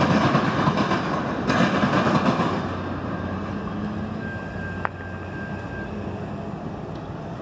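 Freight train rumbling past a grade crossing, the noise fading after about three seconds as it moves away, with a brief faint high tone near the middle.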